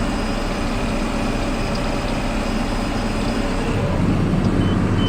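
Tractor engine running steadily while pulling a planter, heard from inside the cab. Its low hum grows louder about four seconds in.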